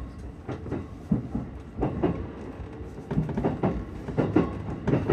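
Keihin-Tohoku line E233 series commuter train running, heard from inside the car: a steady low rumble with irregular sharp knocks of the wheels over rail joints and points.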